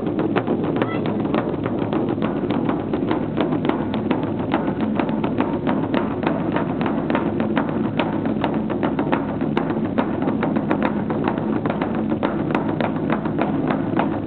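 Festival percussion: drums under a fast, steady clacking beat of several strikes a second.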